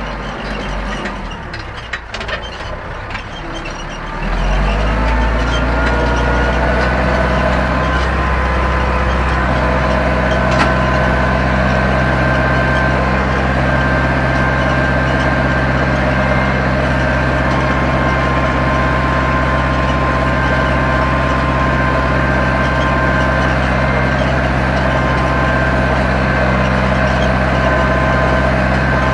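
Zetor 7245 tractor's four-cylinder diesel engine running at low revs, then about four seconds in revving up and settling into a steady, loud run with a high whine, pulling a plough.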